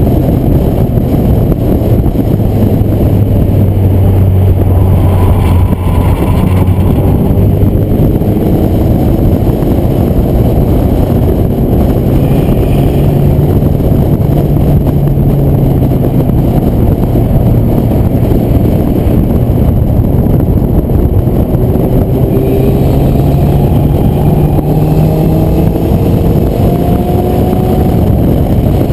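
Porsche 944 Turbo's turbocharged 2.5-litre four-cylinder engine running hard at track speed, heard from the cabin with the window down, over heavy wind and road noise. The engine note climbs in pitch under acceleration twice, about halfway through and again near the end.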